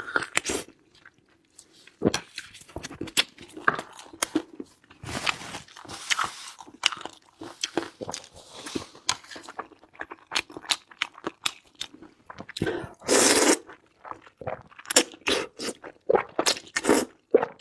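Close-miked eating: chewing and biting food with short, irregular crunches and wet clicks, and a longer, louder burst of noise about thirteen seconds in.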